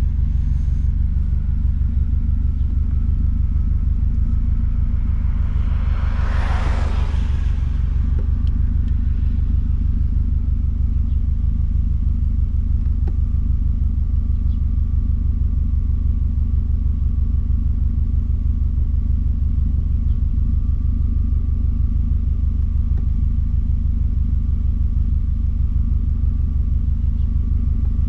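Straight-piped exhaust of a 2006 Subaru WRX STI's turbocharged flat-four running steadily, a deep, even rumble. A brief whoosh comes about six seconds in.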